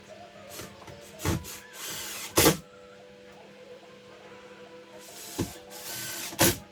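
Hands-on work noises: twice, a short scraping hiss ends in a sharp knock, with a few lighter knocks in between.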